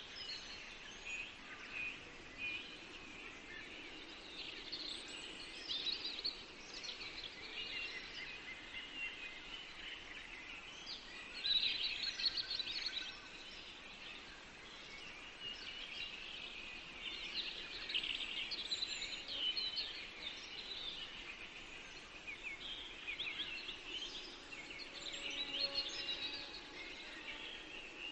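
Forest birdsong: several small songbirds chirping and trilling in overlapping high phrases, with a louder cluster of song about a third of the way in and again near the end.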